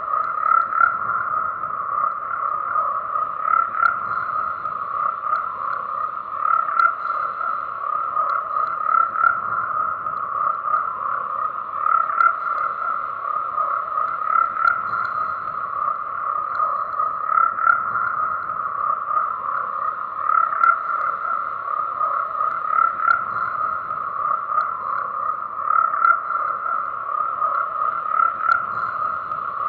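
A chorus of frogs calling continuously, many overlapping croaks that swell every couple of seconds.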